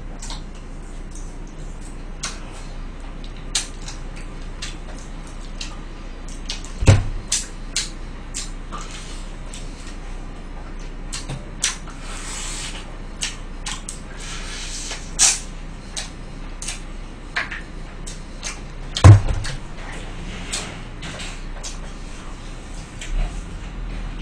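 Close-miked crunching and chewing of crispy fried chicken: scattered crisp crackles and clicks, with two heavy thumps about seven and nineteen seconds in.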